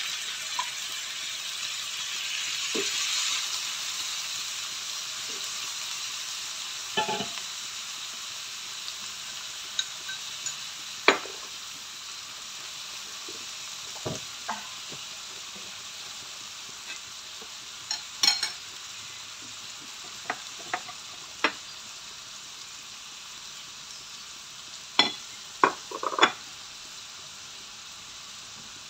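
Small squid sizzling in hot oil with garlic, shallots and spring onion just after being tipped into the pan. The sizzle is strongest a few seconds in and slowly fades as the squid are stirred with a spatula, which gives scattered sharp clicks against the pan, several close together near the end.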